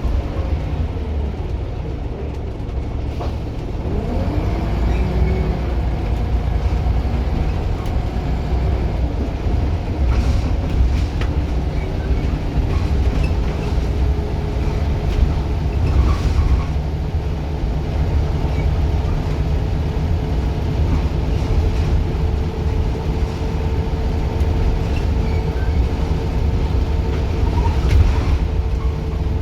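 Scania single-deck bus under way, engine and driveline running with a heavy low rumble. Whining tones rise and fall as it pulls away, then hold steady while it cruises, with a few light rattles.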